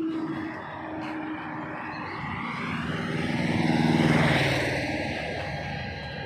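A truck driving past, its engine and tyre noise swelling to a peak about four seconds in and then fading away.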